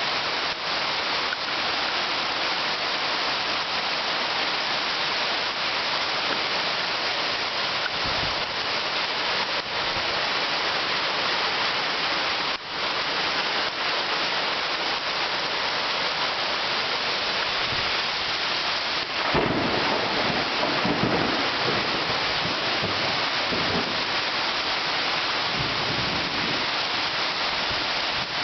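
Heavy rain pouring down in a steady hiss during a thunderstorm. Thunder rumbles deeply about two-thirds of the way through, with a lesser low thump earlier.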